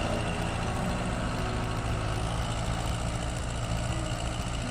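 Ford 500 tractor engine running steadily, a low, even hum.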